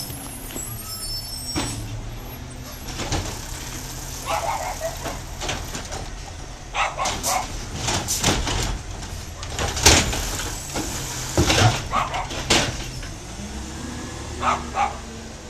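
Garbage truck engine running steadily, with a series of sharp knocks and clattering clanks, most of them in the middle of the stretch.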